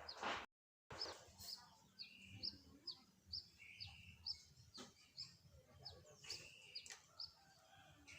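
Faint bird chirping: short, high chirps repeated about twice a second, with a few softer, lower calls and a couple of light clicks. The sound drops out completely for a moment about half a second in.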